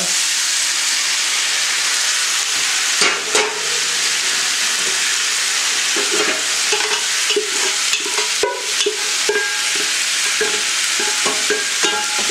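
Diced vegetables and chicken sizzling as they hit hot olive oil in a cast iron skillet, a loud, steady frying hiss. Frequent short knocks and scrapes of utensil and pot against the pan run through it as the food is scraped out of a stainless pot.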